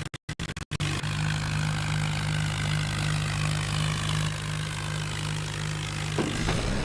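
Tractor engine running steadily at an even speed. The sound cuts in and out several times in the first second and turns rougher and less even about six seconds in.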